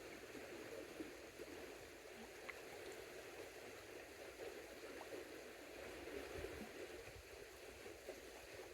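Faint, steady flow of creek water, with a few tiny ticks.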